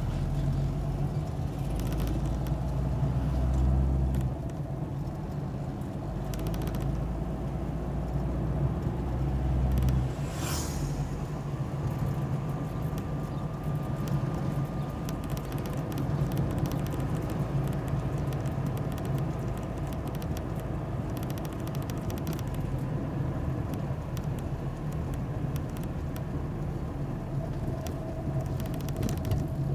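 Engine and road noise of a vehicle being driven, with a steady low rumble that swells twice during the first ten seconds.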